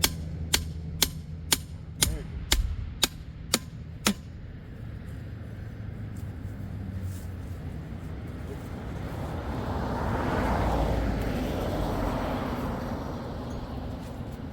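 Sharp, evenly spaced clicks, about two a second, that stop about four seconds in. Then a vehicle passes, its noise swelling and fading.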